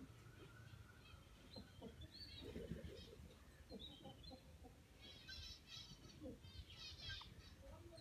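Faint, high bird chirps scattered throughout, with two quick twittering runs of rapid notes in the second half.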